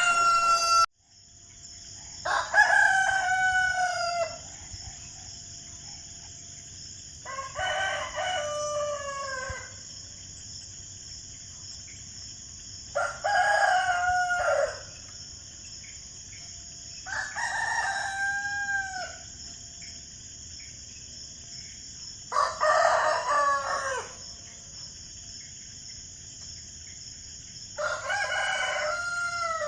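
A rooster crowing cock-a-doodle-doo six times, each crow about two seconds long and about five seconds apart, over a steady high-pitched hiss in the background.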